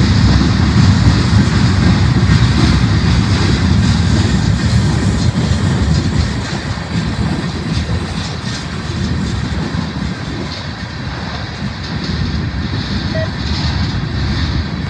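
Freight train rolling past in a steady low rumble that eases a little after about six seconds.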